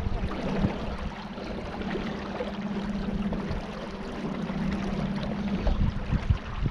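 A small boat's motor running with a steady hum that fades near the end, over water rushing past the hull.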